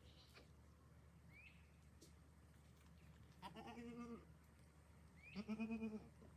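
A goat bleating twice, about three seconds in and again near the end. The calls are pitched and wavering, and the second is louder.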